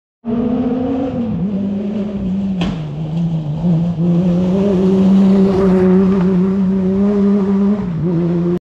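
Rally car engine running hard as the car approaches and passes on a gravel stage, its note shifting up and down, with one sharp crack about two and a half seconds in and getting louder from about four seconds in. The sound cuts out abruptly for a moment at the start and again near the end.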